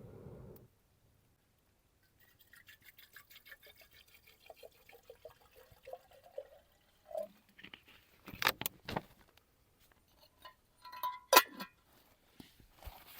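Rapid scraping strokes of camp cookware, then several sharp knocks and a short metallic clink with a brief ring.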